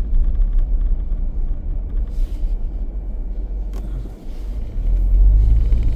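A car driving on the road, a steady low rumble of engine and tyres that dips briefly about four seconds in and then grows louder.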